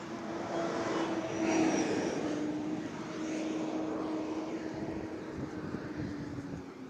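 A loud passing engine: broad noise with a steady hum whose pitch drops a little about two seconds in and again near the end.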